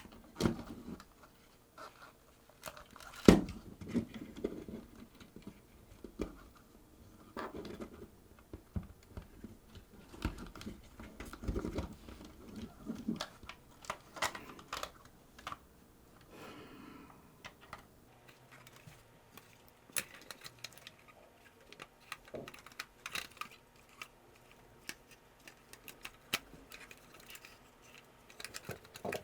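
Irregular small clicks, taps and brief scrapes of small plastic and metal parts being handled and fitted during reassembly of a Sony HVR-DR60 hard-disk recorder, with one sharper knock about three seconds in.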